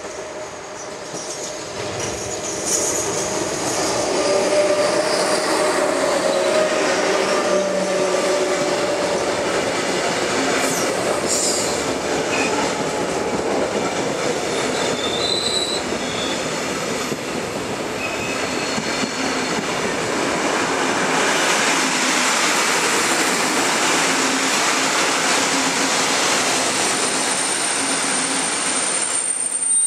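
Passenger train hauled by two SŽ class 363 'Brigitte' electric locomotives running into a station and slowing. The noise builds over the first few seconds as the locomotives draw near and pass, then the coaches roll by with continuous wheel-on-rail noise and brief squeals. A high steady squeal sets in near the end as the train brakes.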